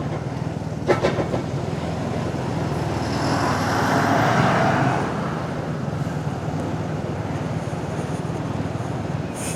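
Suzuki Gixxer 250 motorcycle cruising at a steady speed: a steady engine hum under wind and road noise. The noise swells for a couple of seconds in the middle, and there is a short tick about a second in.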